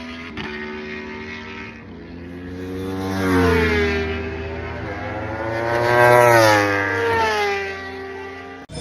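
Sport motorcycles passing by on a race track at speed. Two main passes are loudest about three and six seconds in, the engine pitch dropping as each goes by. The sound cuts off suddenly near the end.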